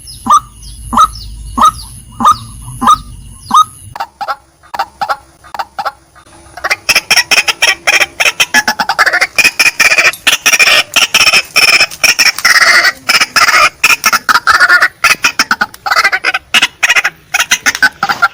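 White-breasted waterhen (female) calling: sharp notes repeated about twice a second for the first few seconds, a few scattered notes, then from about seven seconds in a fast, dense run of harsh calls.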